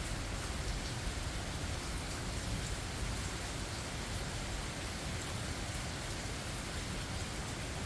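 Steady rain falling in a forest: an even hiss with scattered faint drop ticks, over a low rumble.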